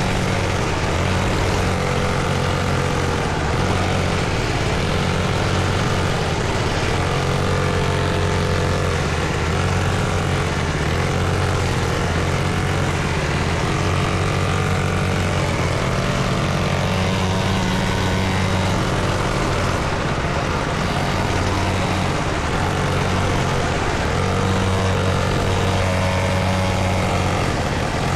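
Small dirt bike engine running steadily under way, its pitch drifting up and down a little with the throttle.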